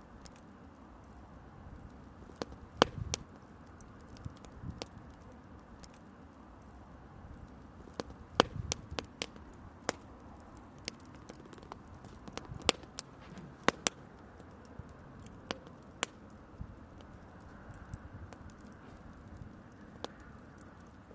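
Small wood campfire crackling, with irregular sharp pops and snaps, a few of them much louder, over a faint steady hiss.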